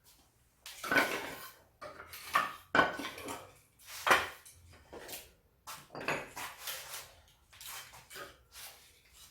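Axe splitting firewood into kindling: a string of irregular sharp chops and wooden clacks, the loudest about one to four seconds in.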